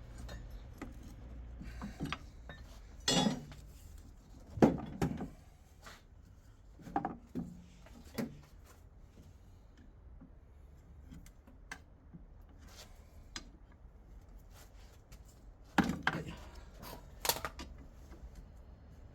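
Metal gearbox parts and tools being handled during a manual gearbox teardown: scattered clanks and clinks, several in the first eight seconds, then a pause, then a few more near the end.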